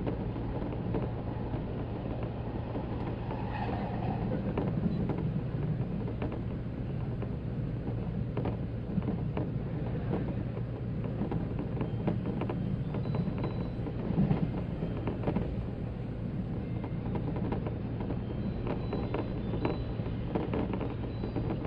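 A 185 series electric train running: a steady low hum and rumble with scattered clicks and knocks from the wheels and track.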